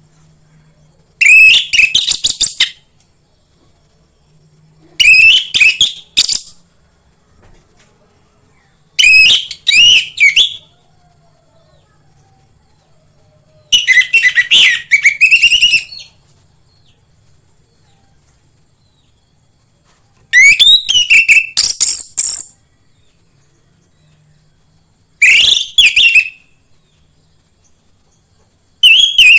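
Orange-headed thrush (anis merah) singing: seven short phrases of quick, varied whistled notes, each about one and a half to two seconds long, separated by pauses of a few seconds.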